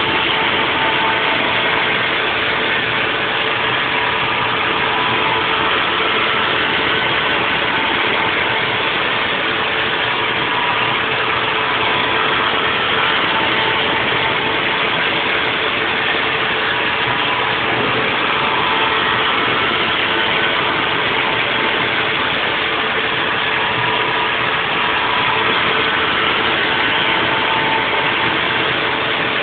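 Haas VF4 CNC vertical mill running a 3D machining pass on a nest block: a steady, even machine noise with a few constant tones, unchanging throughout.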